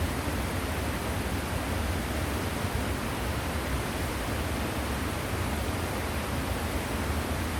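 Waterfall: a steady, even rush of falling water with a strong low rumble underneath.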